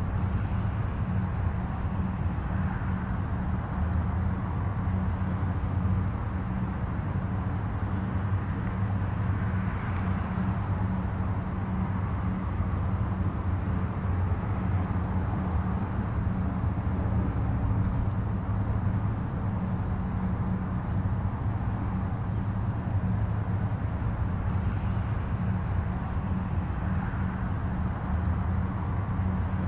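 Distant highway traffic: a steady low rumble of tyres and engines, with single vehicles swelling slightly louder now and then as they pass.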